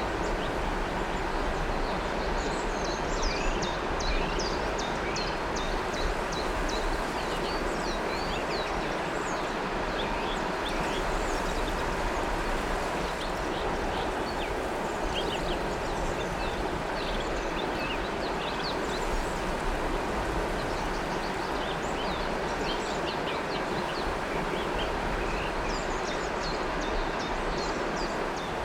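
River water flowing steadily, with many small birds chirping and twittering over it.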